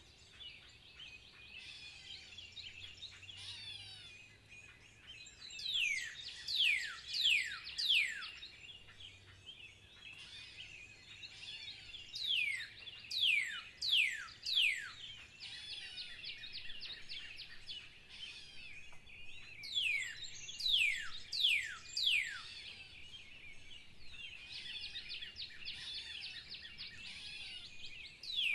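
Wild birds singing. One bird repeats a phrase of three or four quick, steeply falling whistles about every seven seconds, and other birds twitter steadily in between.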